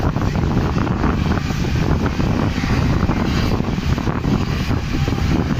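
Passenger train running at speed, heard through an open coach window: a steady rumble of wheels on rails mixed with wind buffeting the microphone.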